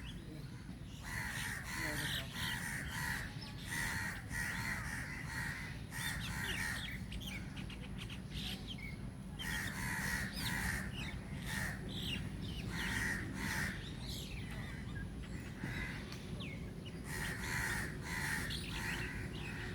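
Many birds calling in the trees: bursts of short, harsh, repeated calls, with thinner higher chirps mixed in, over a steady low rumble.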